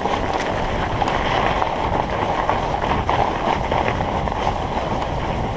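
Surly Moonlander fat bike rolling over a bumpy, snow-covered trail: a steady rumble and rustle of the fat tyres on snow, mixed with wind noise on the microphone and small rattles from the bumps.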